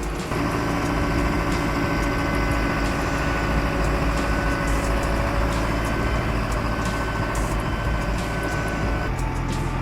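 A heavy vehicle's engine running steadily with a low rumble, its sound changing abruptly about nine seconds in.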